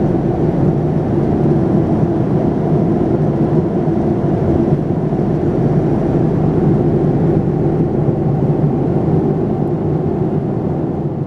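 Steady, loud cabin noise of a Boeing 787-9 airliner: its Rolls-Royce Trent 1000 turbofans running and the air rushing past, heard from inside the cabin, with no change in pitch or level.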